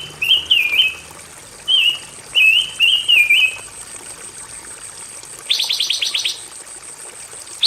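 Pancawarna songbird singing: a string of short chirped whistle notes, each rising then dropping. After a pause comes a fast rattling trill of about nine ticking notes in under a second.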